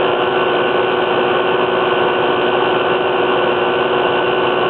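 Small air conditioner running on high cool, compressor and fan giving a steady hum with two held tones, with the truck's engine running above idle alongside to keep it powered.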